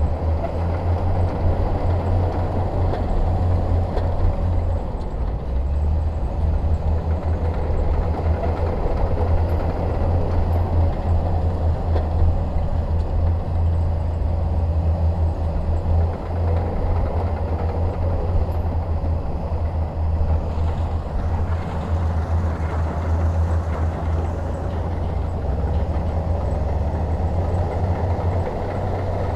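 Bulldozer's diesel engine running steadily under load, a deep continuous rumble with the grind of the machine working.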